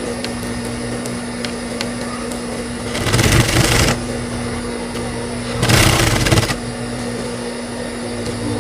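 High-speed sewing machine with its motor humming steadily, stitching in two short runs of about a second each, about three seconds in and again near six seconds.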